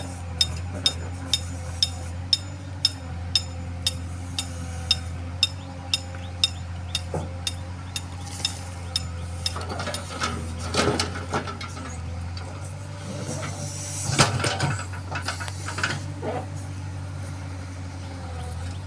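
A diesel engine on heavy machinery running steadily, with sharp clicks about twice a second through the first half. Later come two bursts of rattling and scraping, the louder one about two-thirds of the way through.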